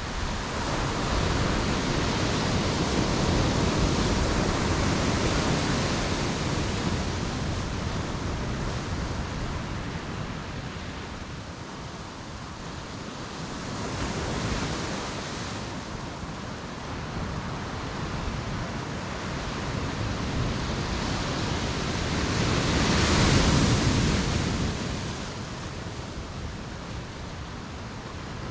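Ocean waves breaking and washing up a beach, swelling and fading in three surges, the loudest a little over three quarters of the way through.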